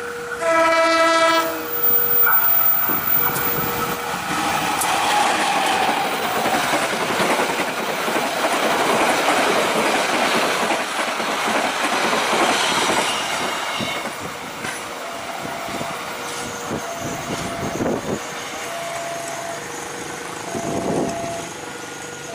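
Diesel locomotive horn sounding one blast of about a second, followed by a passenger train passing close by, its wheels clattering over the rail joints, loudest for the first dozen seconds and then fading as it draws away.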